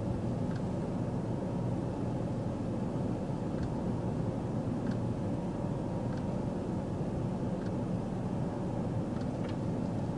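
Steady low rumble and hiss of a running vehicle, with a few faint light ticks.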